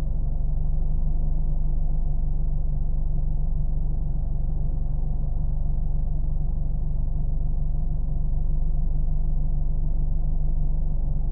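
Car engine running with a steady, low, even drone, deep rumble with no revving, changes or gaps.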